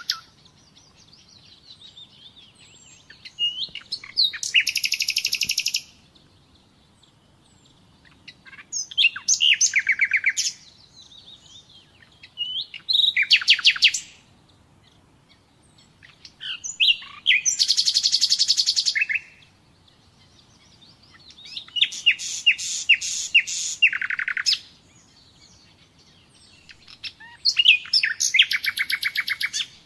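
Nightingale singing: six song phrases of fast repeated notes and trills, each lasting one to three seconds, separated by pauses of a few seconds.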